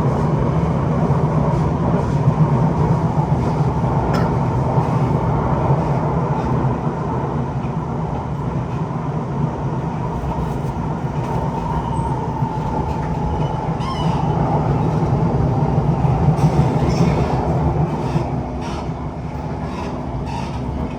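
Siemens C651 MRT train running along the track: steady rolling and running noise with a faint whine that sinks slightly in pitch, getting a little quieter near the end.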